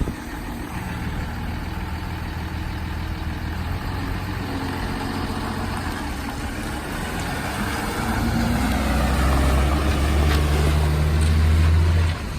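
Dodge Ram 5500 bucket truck's 6.7-litre Cummins diesel engine running as the truck pulls off, growing louder about eight seconds in and dropping off sharply just before the end.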